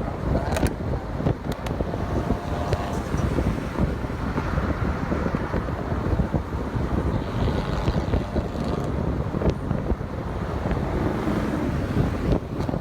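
Car on the move: engine and road rumble with wind buffeting the microphone.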